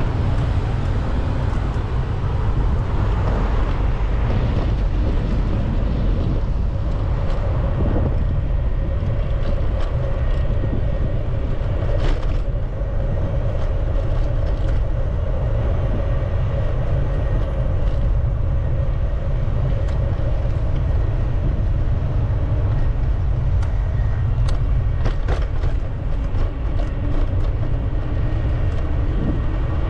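Steady low rumble of wind on the microphone and road noise while riding a bicycle, with a faint steady hum and a few sharp clicks.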